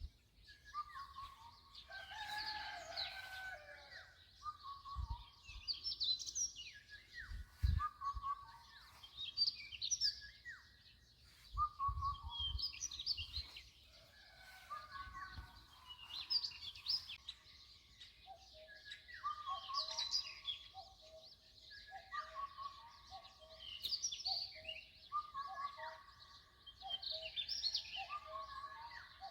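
Birds chirping and singing in repeated short phrases every few seconds, with a few brief low bumps in the first half.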